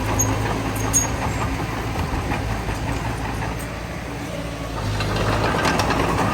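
Heavy diesel engine of earthmoving machinery running with a steady low hum, easing off about four seconds in and building again soon after.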